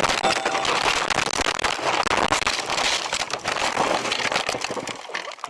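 Car crash: several seconds of dense crunching and crackling clatter that drops away about five seconds in.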